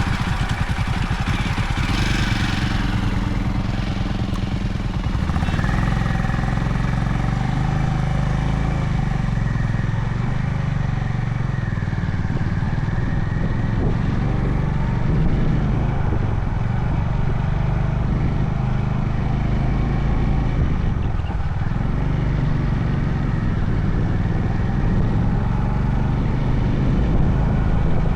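Honda CB350 H'ness single-cylinder engine running as the motorcycle is ridden, its note shifting a few times with the throttle, over wind and road noise.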